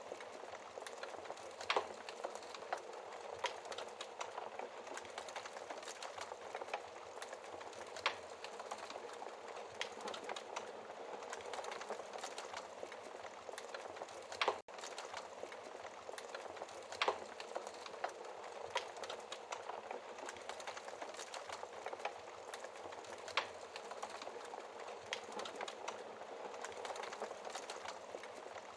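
Wood fire burning in a fireplace: a steady soft crackle and hiss with sharp pops every few seconds, a handful of them louder than the rest.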